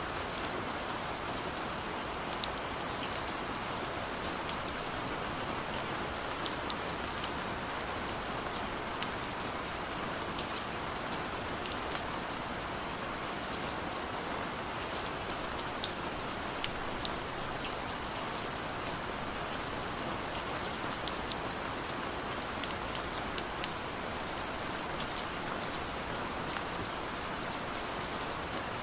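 Steady gentle rain falling, a continuous hiss of rainfall with many small individual drops ticking throughout.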